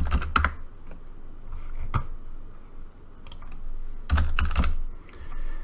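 Keystrokes on a computer keyboard, coming in short irregular clusters of clicks with dull thuds.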